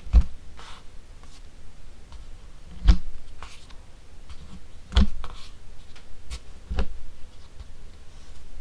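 Classic Fan 52-inch ceiling fan running, a low rumble of moving air under four irregular sharp clicks or knocks about two seconds apart.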